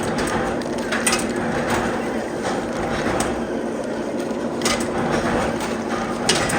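Factory machinery running with a steady hum, broken by sharp knocks at irregular intervals, about five of them.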